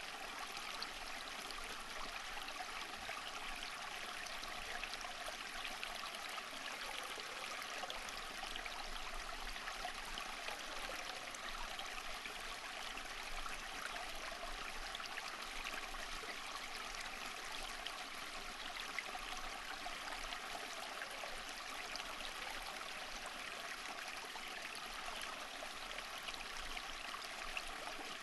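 Running water, a stream flowing and trickling steadily.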